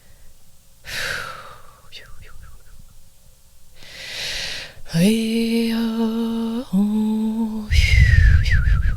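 A woman breathing deeply in and out, then humming one steady held note for about two seconds, breaking briefly and holding the same note again, followed by a breathy exhale.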